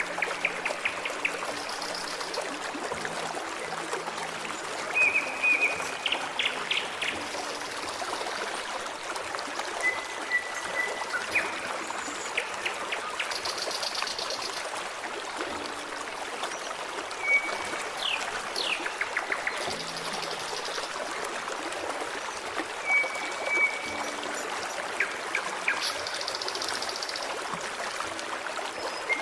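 A forest stream running steadily with a babbling trickle. Songbirds sing over it every few seconds: short trills, quick runs of chirps and a few high twittering phrases.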